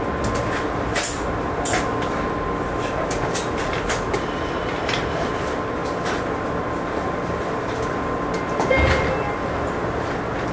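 A JR Kyushu 103 series electric train's running noise on the subway section: a steady rumble under a constant high hum, with scattered clicks and rattles. There is a brief louder low thud with a short whistle-like tone about nine seconds in.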